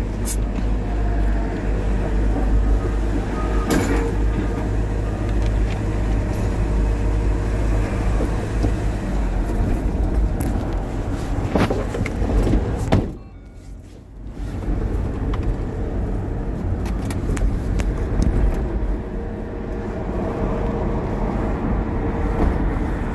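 Vehicle on the move: steady low engine and road rumble, dropping away briefly about thirteen seconds in.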